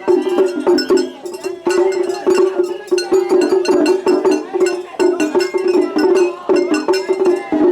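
Japanese festival hayashi music: a melodic line over dense, rapid drum strokes.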